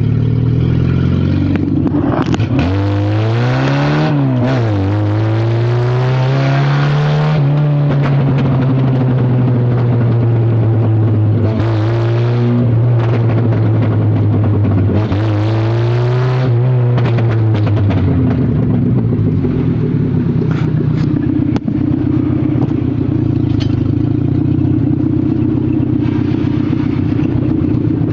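A vehicle engine revved up after a few seconds of idling, held at raised revs for about twelve seconds with a couple of brief dips, then dropping back to a steady idle; the whole run is loud, the noise the owner is asking about.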